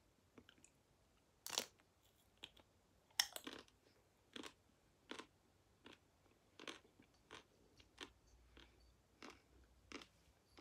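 Crunchy chewing of a nut-studded, chocolate-coated ice cream bar, the hard shell cracking between the teeth. The two loudest crunches come about one and a half and three seconds in, then softer crunches follow about every three quarters of a second.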